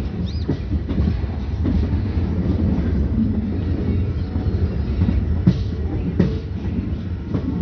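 Express train hauled by a WDM3A diesel locomotive running along the track: a steady low rumble with a few irregular sharp clanks of the wheels over the rail joints.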